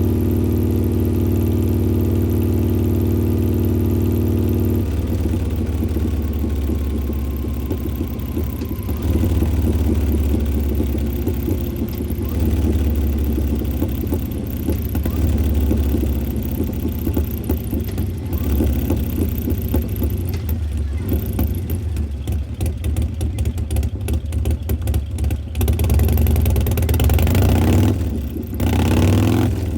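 Harley-Davidson Street Glide Special's Milwaukee-Eight V-twin, with an S&S 475 cam, Performance Machine Super Gas air cleaner and Burns Stainless 2-into-1 exhaust, running at idle. It idles evenly for about five seconds, then runs more unevenly, with a few short throttle blips.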